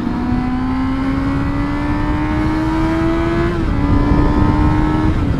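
Honda CBR600RR's inline-four engine pulling under steady acceleration, its pitch slowly rising, with an upshift about three and a half seconds in and another near the end. Wind noise on the helmet microphone underneath.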